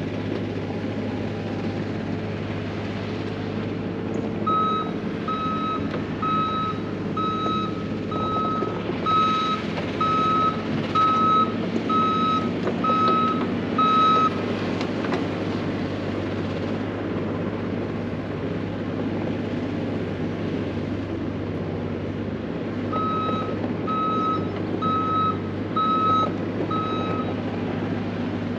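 A diesel earthmoving machine running steadily while its backup alarm beeps: a run of about eleven beeps roughly a second apart, then, after a pause, about five more near the end.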